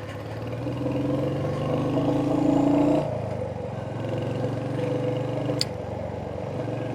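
Royal Enfield Hunter 350's single-cylinder engine running under way, its pitch rising slowly for the first three seconds, then dropping suddenly and running steady.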